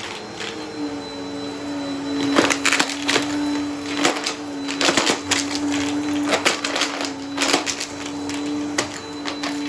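Vacuum cleaner running with a steady motor hum, while dry debris crackles and clicks sharply and irregularly as it is sucked up.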